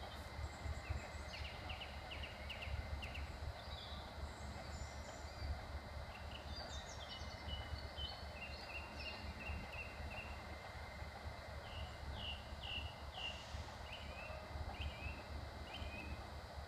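Small birds chirping in quick series of short notes, over a steady low rumble.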